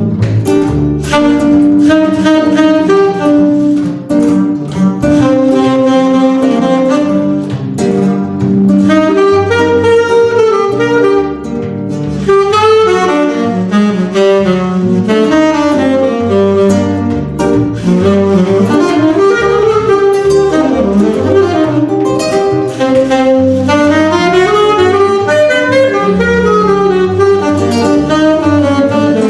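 A small trio playing instrumental jazz live: a lead melody line of fast runs and sliding notes over chords and a bass line that steps from note to note.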